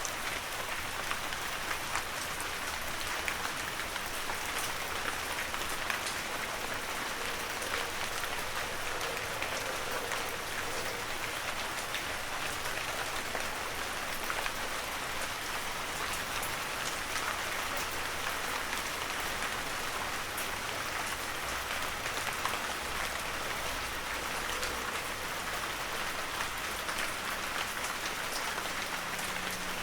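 Heavy rain falling steadily in a forest, a dense hiss flecked with the ticks of individual drops.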